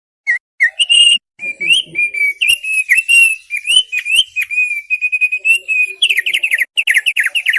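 Thick-billed heleia (opior paruh tebal) singing a loud, fast, varied song of short whistled chirps, ending in a quick run of repeated falling slurred notes.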